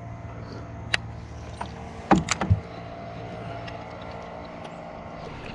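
Boat motor running with a steady hum, with a few sharp knocks about one second and two seconds in.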